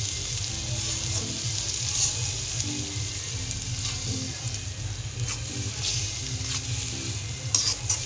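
Onion-tomato masala frying in oil in a steel kadhai, with a steady sizzle, while a steel spatula stirs it and scrapes and clicks against the pan several times, most sharply near the end. Faint background music plays underneath.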